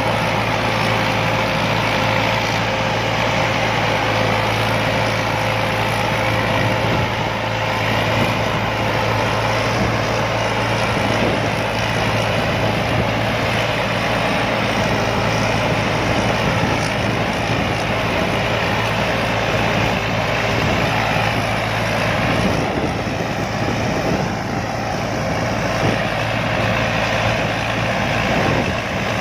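Combine harvester running steadily, its engine giving a continuous, even drone with a constant low hum.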